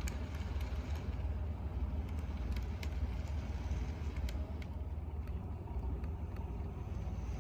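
N scale model train running along the layout track: a steady low rumble with faint, scattered clicks from the wheels on the rails.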